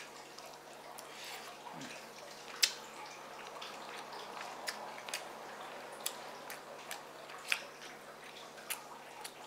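A person chewing a mouthful of fried rice: a run of irregular wet mouth clicks and smacks, the sharpest about two and a half seconds in.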